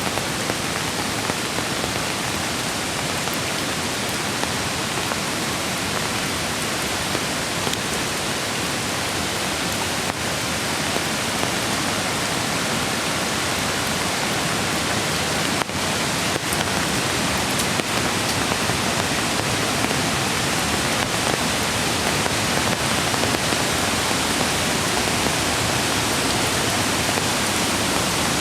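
Steady, dense hiss of rain together with rushing mountain-creek water, growing slightly louder about halfway through.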